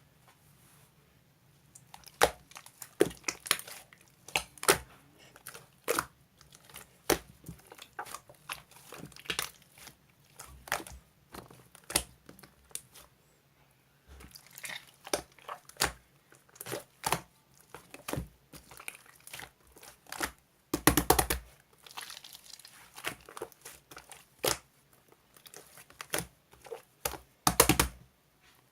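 Crinkly material being crumpled and torn close to the microphone: irregular sharp crackles, with two denser bursts, about two-thirds in and near the end.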